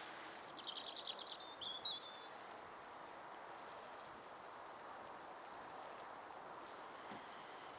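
A small songbird sings two short, rapid, high-pitched phrases, one about half a second in and another about five seconds in, over a steady outdoor background hiss.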